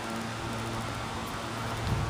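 A steady low mechanical hum, like a fan or motor running, over outdoor noise, with a brief low thump near the end.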